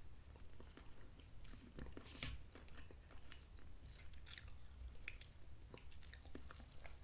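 Faint close-up chewing of a beef meatball, with a few short clicks and scrapes as a fork cuts into the meatball on a plate, the clearest about two and four seconds in.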